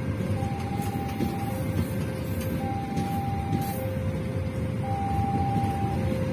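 Passenger train coaches rolling past with a steady rumble of steel wheels on the rails. Over it a level-crossing warning alarm switches back and forth between a high and a low tone, each held about a second.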